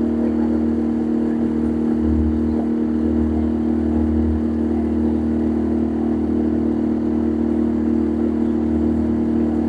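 Boat motor running at a constant speed: a steady, even drone with a low rumble underneath.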